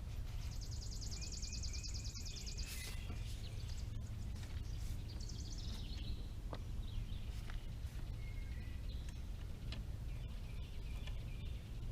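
Birdsong: a fast, high trill in the first couple of seconds and scattered shorter chirps, over a steady low rumble of background noise. There are a few faint clicks.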